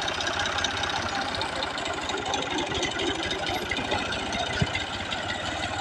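Tractor diesel engine running steadily, with a brief knock about four and a half seconds in.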